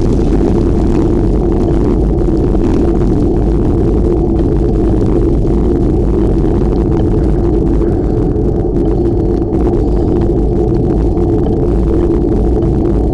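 Steady low rumble of wind buffeting the microphone while cycling, loud and unbroken.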